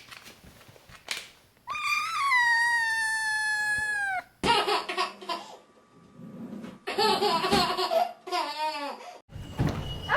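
A long, high squeal that lasts about two and a half seconds and slides slightly down at the end, followed by bursts of laughter.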